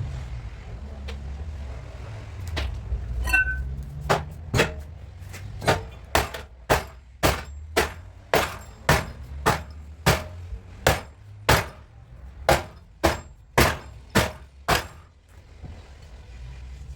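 A hammer striking a car body panel in a steady run of about twenty sharp blows, roughly two a second, as a dent is worked out of the Peugeot's front sheet metal. A steady low rumble runs underneath, and a single ringing metal clink comes a little before the hammering starts.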